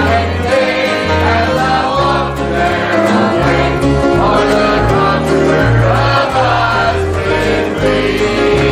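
Gospel music: a choir singing over instruments with a steady bass line.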